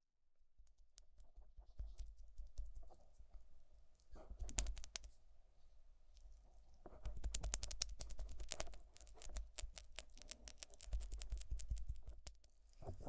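Fingers working thick Vaseline over the silicone ears of a 3Dio binaural microphone: dense sticky crackling and clicking, close to the ear, coming in uneven spells, busiest just after four seconds in and again from about seven seconds in.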